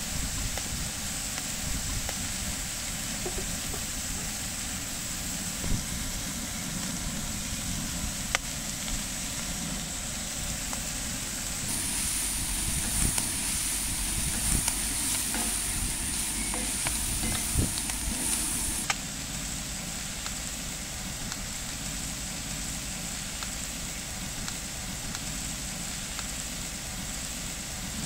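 Mixed vegetables sizzling in a cast-iron pan, with a wooden spoon stirring them and scraping the pan. The sizzle grows louder in the middle stretch, when the vegetables are being stirred.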